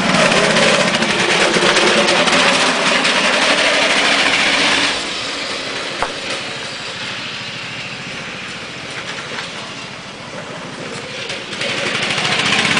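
Engine of a hot-rodded riding lawn mower running at speed: loud at first, dropping away about five seconds in as the mower moves off, and growing louder again near the end.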